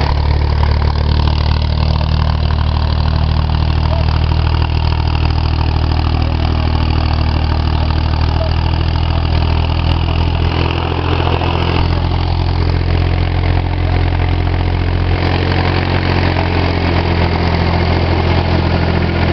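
Orchard tractor's engine running steadily at a constant speed.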